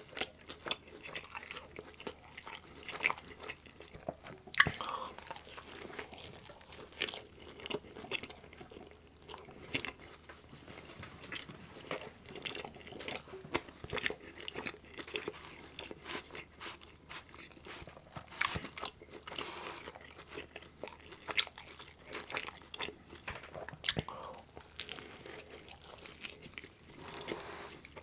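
Close-miked chewing and biting of meat-topped pizza, with irregular crunches of crust and wet mouth clicks.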